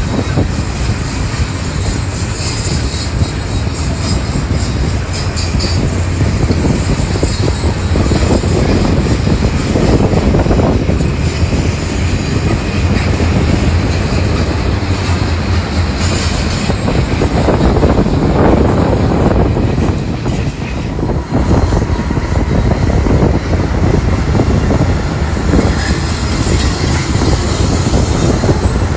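Double-stack container train's well cars rolling past, a loud steady rumble of steel wheels on the rails with a rhythmic clatter over the rail joints.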